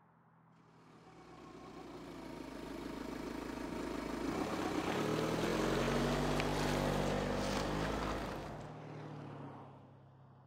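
A car drives up along the road, its engine and tyre noise growing louder over several seconds to a peak, then dying away near the end.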